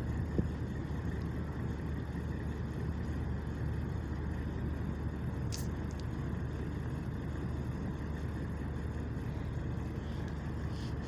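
A boat's engine running steadily during a test run: an even low rumble with a constant hum underneath. Two faint ticks come about halfway through.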